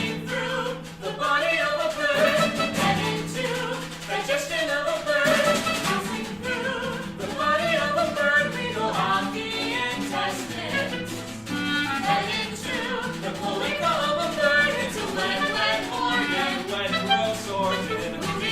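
Live music from a small theatre band with clarinet and percussion: quick melodic figures over held low notes.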